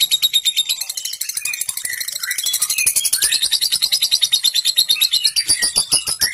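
Lovebird 'ngekek' chatter: a long, rapid, high-pitched rattling trill of about ten notes a second, with short whistled chirps mixed in partway through and again near the end.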